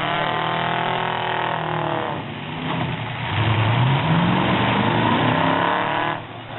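Demolition derby truck engines revving hard, the pitch sinking over the first two seconds and then climbing again about halfway through, with a brief drop near the end.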